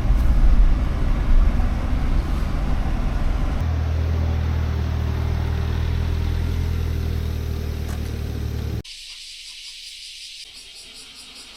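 Kei truck's engine running with a steady low rumble that grows fuller about three and a half seconds in. About nine seconds in it cuts off suddenly, giving way to a much quieter high hiss with a faint rhythmic pulsing.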